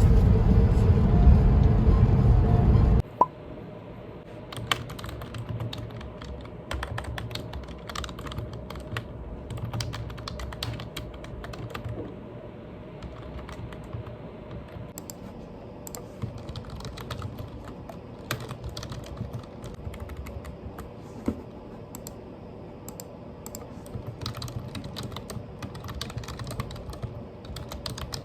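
Low rumbling road noise, as inside a moving car, for about three seconds, which cuts off abruptly. Then comes a long quieter stretch of irregular light clicks and taps.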